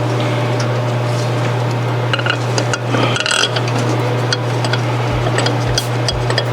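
Light metallic clicks and clinks of steel cylinder head bolts being handled and threaded by hand, over a steady low hum.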